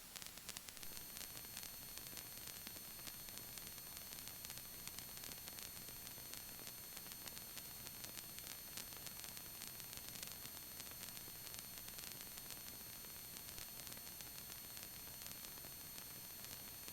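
Faint steady static hiss of the helicopter's radio and intercom audio feed between transmissions, with a few thin high-pitched whines held underneath.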